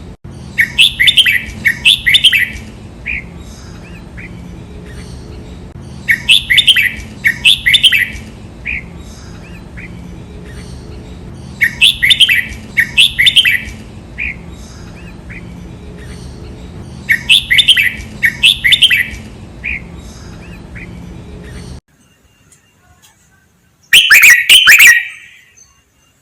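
Red-whiskered bulbul singing its doubled song phrase, two quick bursts followed by a few trailing notes, four times about every five and a half seconds over a steady low hum. Near the end the hum stops and one louder burst of song follows.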